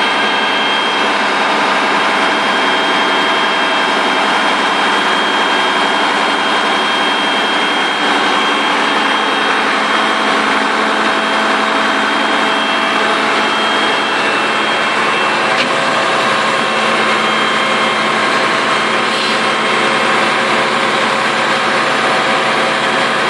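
Skip truck's engine running steadily at idle, with a steady high whine over it.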